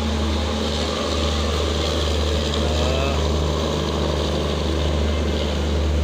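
Indian Railways passenger train hauled by a WAP-7 electric locomotive rolling into the station past the platform, a steady low rumble throughout. Faint voices underneath.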